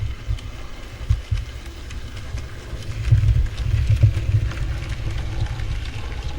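N gauge model train running round the track, its small motor and wheels making a low rumble with faint clicks. The rumble grows louder about three seconds in, then eases.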